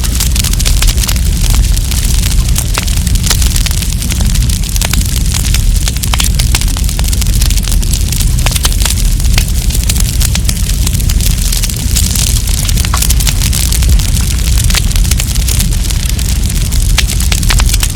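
Wood campfire crackling, with frequent sharp pops and snaps over a steady low rumble and hiss.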